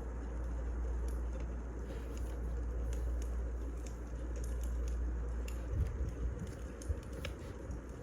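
Wood fire crackling: scattered sharp pops and snaps over a steady low rumble and hiss, with a couple of louder pops from about six seconds in.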